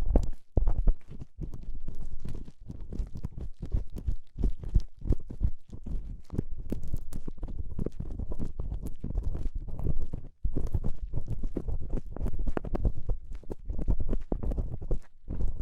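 ASMR ear cleaning: an ear-cleaning tool scraping and rubbing right against the microphone's ear, in quick, irregular strokes, with a brief pause about ten seconds in.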